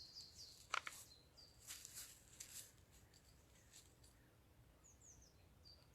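Faint woodland birdsong: several small birds chirping and twittering in short, high, falling notes, with a brief click or rustle about a second in.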